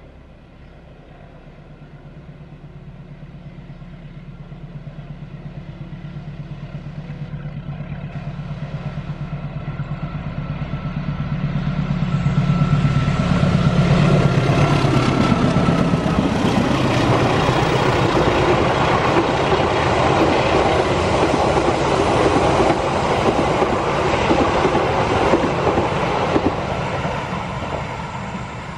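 A diesel locomotive-hauled passenger train approaches and passes. The engine hum grows steadily louder and peaks about halfway, where its pitch drops as the locomotive goes by. The coaches then roll past with a continuous clickety-clack of wheels over the rail joints, easing off near the end.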